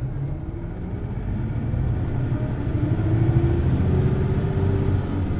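Hino Blue Ribbon City Hybrid bus running, heard from inside the cabin. Its diesel engine is at high revs, with the pitch rising and the sound growing louder through the first three seconds or so, then holding.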